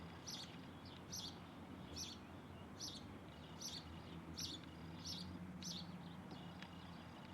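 A bird calling over and over: short, high chirps at an even pace of about one every 0.8 seconds, about eight in all, over a faint low steady hum.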